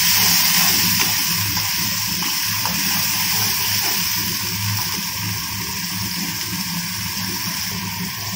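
Wet onion, garlic and ginger paste sizzling in hot oil in a kadai, a steady loud hiss as the water in the paste hits the oil, easing off slightly toward the end. A low hum runs underneath.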